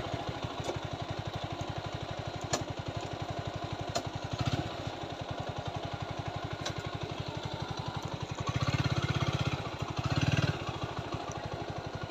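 TVS Apache 4V motorcycle's single-cylinder engine running at low speed over an unpaved track, its beat swelling louder a few times as the throttle opens, with occasional knocks from the bike going over bumps.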